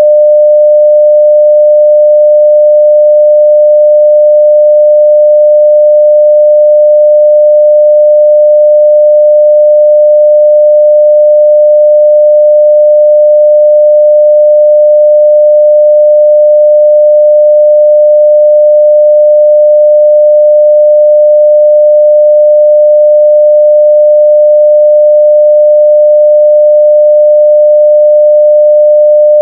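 A continuous pure sine-wave test tone at 600 Hz, held at a steady, loud, unchanging level.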